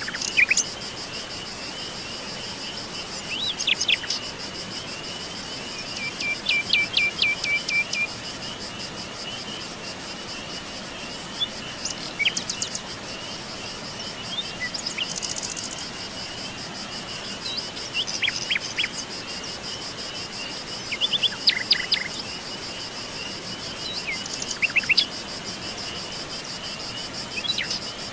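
Forest ambience: a steady chorus of insects trilling, with birds chirping and calling on and off over it. About six seconds in, one bird gives a quick run of repeated notes lasting about two seconds.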